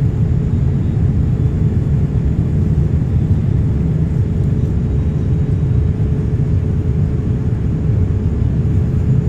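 Passenger jet's cabin noise after takeoff: a steady, loud low rumble of the engines and rushing air, with a faint steady hum on top.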